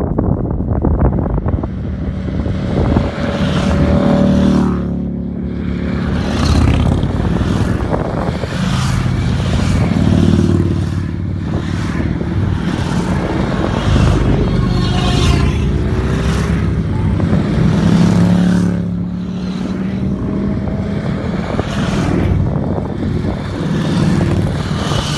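Motorcycle engine pulling hard under way, its pitch climbing, then dropping briefly at gear changes about five seconds in and again near the end of the second climb.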